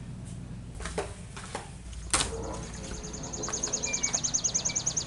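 A door clicks sharply about two seconds in. Then a small songbird sings a fast trill of evenly repeated high notes, about a dozen a second, growing louder.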